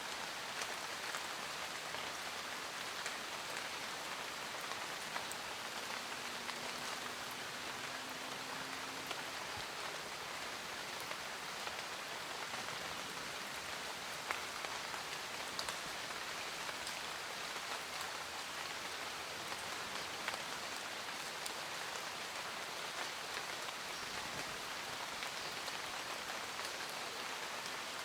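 Steady rainfall: an even hiss of rain with individual drops striking sharply now and then.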